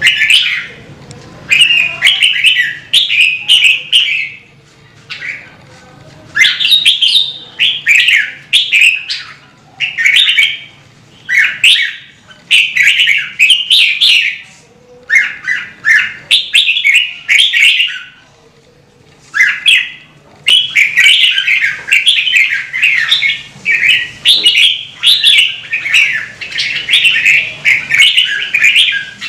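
Red-whiskered bulbul singing loud, quick chattering phrases in bursts of a second or two with short pauses between them, almost continuous in the last third.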